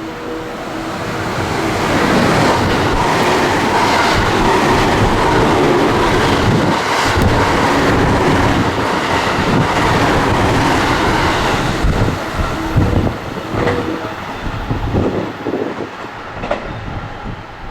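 A train passing through a station at speed without stopping. The rush of wheels on rail builds over about two seconds, stays loud for some ten seconds, then dies away with scattered knocks near the end.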